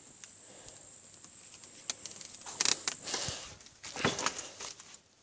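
Campfire of spruce branches and paper crackling with scattered small snaps, with two louder rustles about two and a half and four seconds in.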